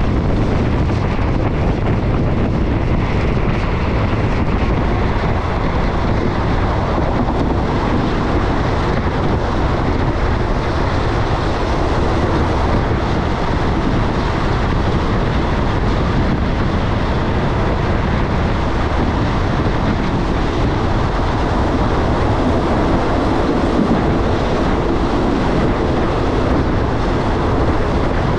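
Passenger train running along the track, a steady rumble with wind buffeting the microphone.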